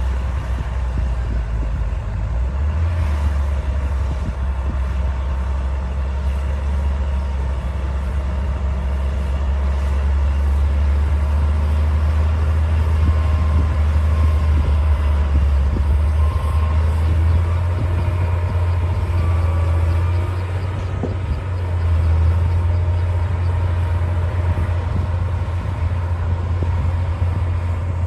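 D60 crawler bulldozer's diesel engine running under load: a deep, steady drone that swells slightly now and then, with a faint wavering squeal in the middle.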